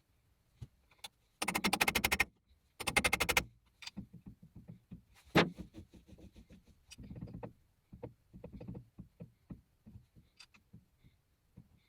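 Two bursts of rapid, fine clicking, about a second each, in close succession. A single sharp knock follows, then scattered light clicks and taps.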